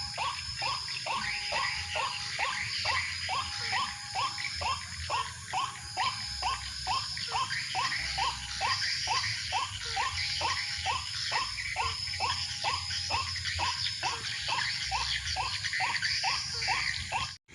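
White-breasted waterhen (ruak-ruak) calls repeated without a break, about two and a half short notes a second, over a steady high hiss. The sound cuts out abruptly just before the end.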